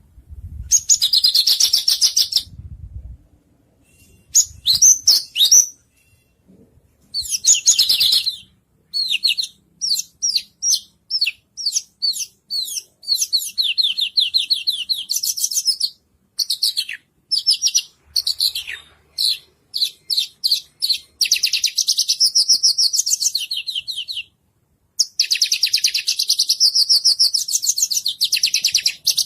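White-rumped shama (murai batu) singing a loud, varied song: a few separate rich phrases at first, then a string of quick repeated notes, and long fast trills near the end.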